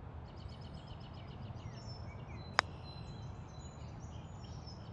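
Outdoor ambience: birds chirping in quick repeated notes over a low steady rumble, with a single sharp click about two and a half seconds in.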